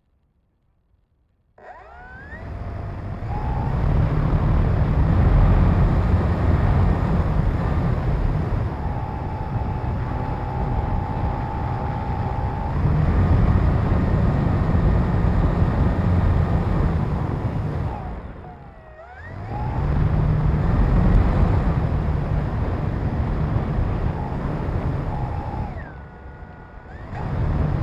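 Radio-control airplane in flight: its motor and propeller running with a heavy rush of air, the motor's pitch gliding up and down with the throttle. It starts abruptly after a second and a half of near silence and dips sharply about two-thirds of the way in.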